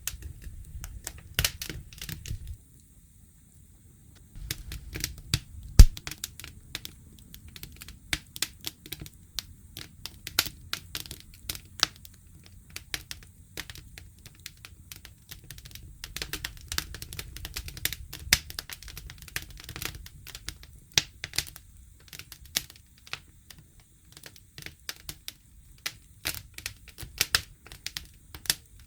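Wood campfire crackling and popping in irregular sharp clicks over a low rumble. It falls nearly quiet for about two seconds near the start, then gives one loud pop about six seconds in.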